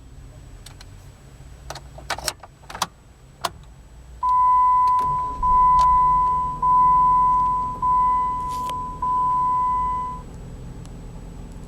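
Several sharp clicks, as from the key fob's remote-start button being pressed, then an electronic beep sounding five times in a row, each a little over a second long, over a steady low hum.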